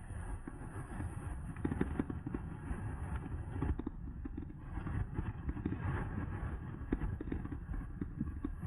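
Riding noise on an electric mountain bike: wind buffeting the microphone, with a steady low rumble and frequent short knocks and rattles from the bike going over bumps.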